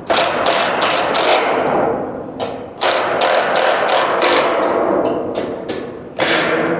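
Ratchet wrench working the hood hinge bolts: quick runs of sharp ratcheting clicks, about three strokes a second, pausing briefly twice.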